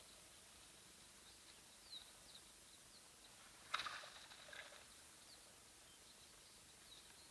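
Faint, scattered bird chirps over a quiet outdoor background hiss, with one short, sharper sound a little before the four-second mark.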